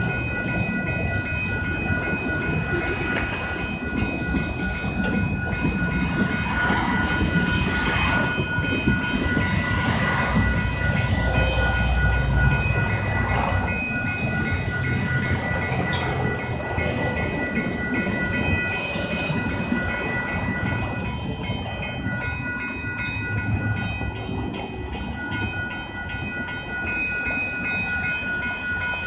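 Norfolk Southern freight train's cars rolling steadily past a grade crossing, wheels clacking and rumbling on the rails, with steady high ringing tones over it that fit the crossing's warning bell.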